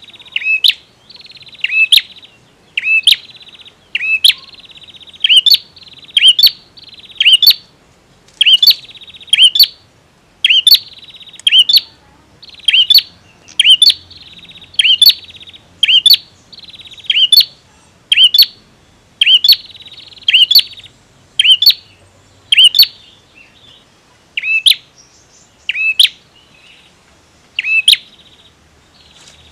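Male prenjak tamu (bar-winged prinia) calling over and over: sharp, loud notes about once a second, with a rasping trill between them that drops out near the end.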